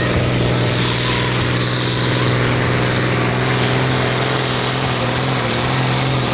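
Hot stock pulling tractor's diesel engine running flat out under load as it pulls the sled down the track, a loud, steady engine note.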